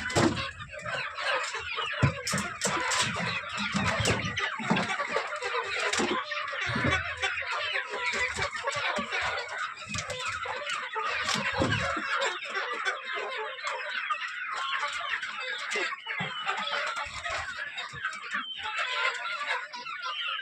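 A large flock of chickens in a poultry shed clucking and calling all at once in a continuous din, with scattered knocks and thumps during the first half.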